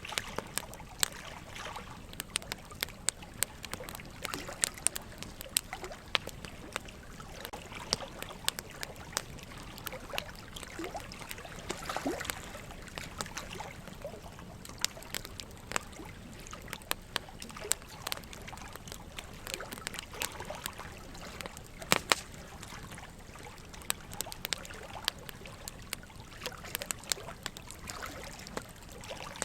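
Burning wood logs crackling with frequent sharp pops, a few louder than the rest, over a steady trickle of running water.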